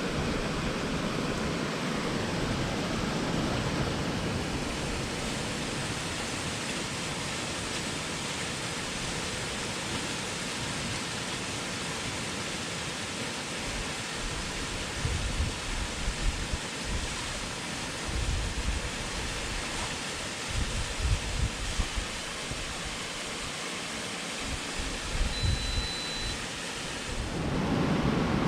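Waterfall rushing: a steady, even roar of falling water. From about halfway on, irregular bursts of low rumble come and go over it.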